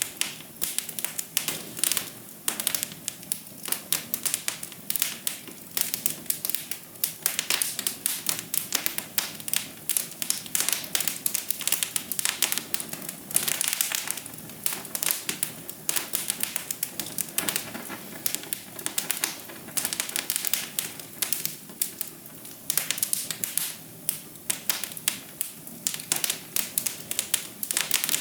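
Wood fire in a fireplace crackling: a dense, irregular run of sharp pops and snaps over a soft steady hiss.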